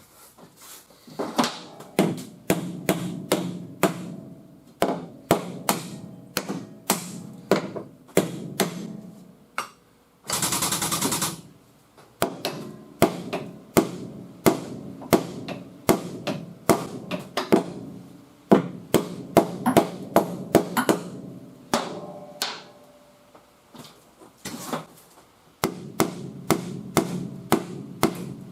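Hammer rapping repeatedly on a car's sheet-metal quarter panel, a few sharp strikes a second in runs with short pauses, working the metal out while a frame machine holds it under pull. A short burst of hiss about ten seconds in.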